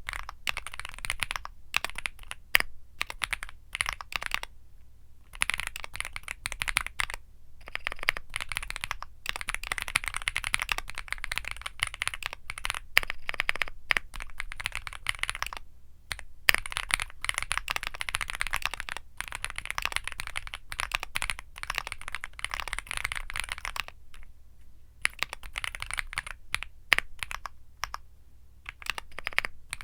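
Typing on a Womier SK75 mechanical keyboard with Womier Mint Blizzard switches: fast runs of key clicks broken by short pauses.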